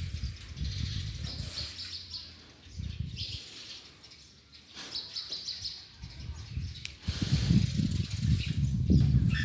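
Small birds chirping in repeated quick trills, over an uneven low rumble that dips near the middle and is loudest over the last few seconds.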